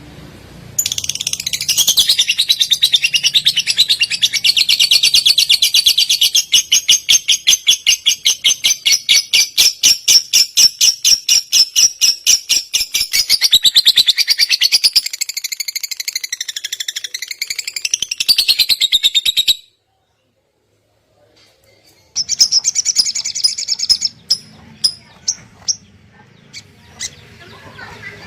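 Recorded songbird tutor song: a long, fast, even trill of high notes that turns into wavering up-and-down sweeps and then cuts off suddenly. After about two seconds of silence, a different bird's chirps and sharp clicking notes begin.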